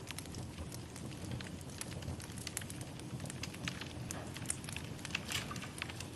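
Wood fire burning in a fireplace: a steady low rumble of flames with frequent irregular crackles and a few sharper pops.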